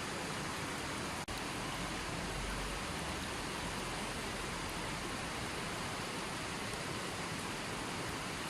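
Running water flowing steadily, an even continuous rush, with a momentary dropout about a second in.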